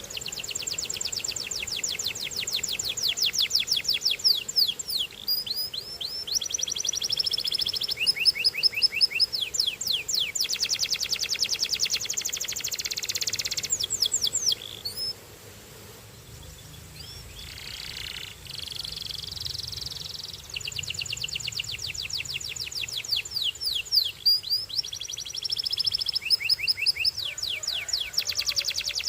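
A canary singing in long, rapid trills of repeated notes, moving from one trill pattern to the next. The song drops away for a few seconds about halfway through, then starts again.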